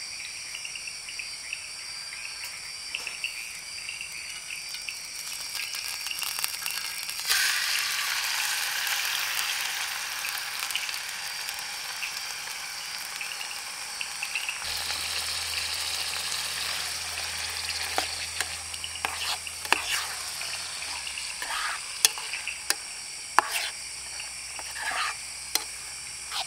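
Canned tuna in chili sauce starts sizzling loudly in a hot pan on a gas camp stove about seven seconds in, and the sizzle slowly eases off. In the second half a spoon clicks and scrapes against the pan as the food is stirred.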